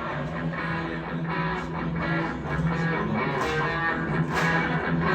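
Live rock band playing an instrumental break: a strummed electric guitar riff over bass, with crisp hits reaching high at a steady beat and the volume building toward the end.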